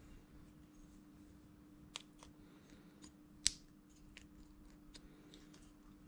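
Faint scattered clicks and taps from handling tools and greasy parts, with a sharper click about two seconds in and the loudest snap about three and a half seconds in, over a faint steady hum.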